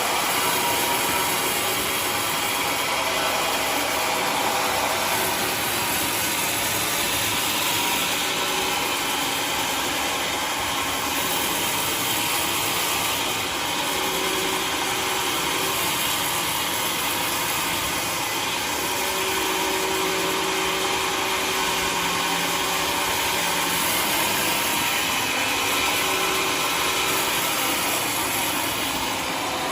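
Homemade sawmill running steadily, its engine-driven saw working through a waru wood log.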